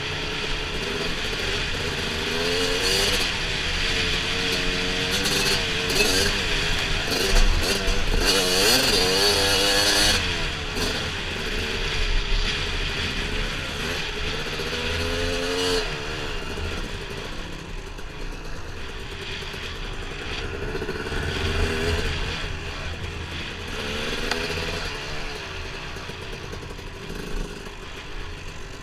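Dirt bike engine running and revving up and down repeatedly while being ridden on a trail, loudest about seven to ten seconds in.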